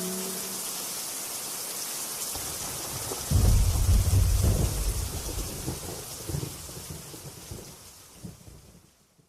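Steady rain with a deep rumble of thunder coming in about three seconds in, both fading out to silence near the end. A guitar chord rings out at the very start.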